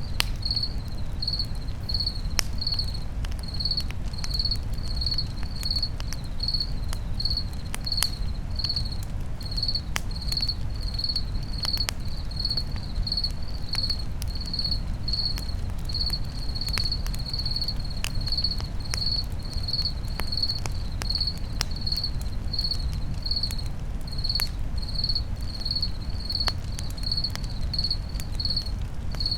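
A cricket chirping steadily, about two chirps a second, over a crackling campfire whose scattered pops sound through a steady low rumble.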